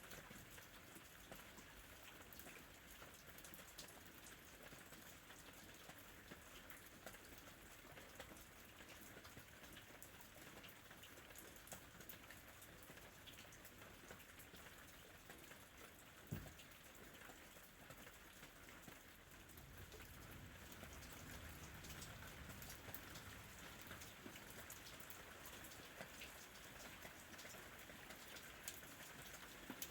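Faint, steady rainfall with scattered drop ticks: an ambient rain bed. One sharper tick comes about 16 seconds in, and a soft low rumble swells from about 20 seconds in.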